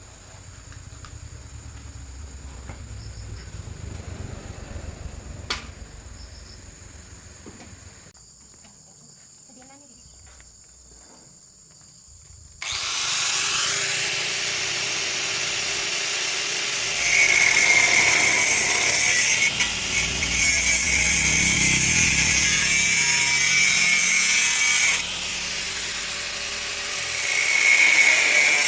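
A power tool starts abruptly about a third of the way in and runs loudly and steadily, with its level stepping up and dipping a couple of times as it works, after a quieter stretch with a low rumble.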